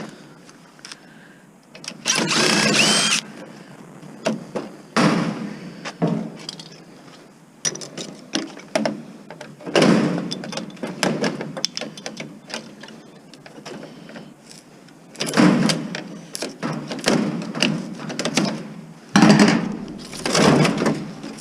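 Sheet-metal panels and parts of a household appliance clanking, rattling and scraping as it is taken apart for scrap: a string of knocks and clicks with several louder scraping clatters.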